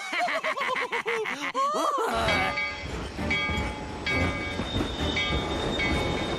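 A cartoon train running on the rails with steady whistle tones, starting about two seconds in. Before it comes a quick run of bouncing, pitched vocal sounds, several a second.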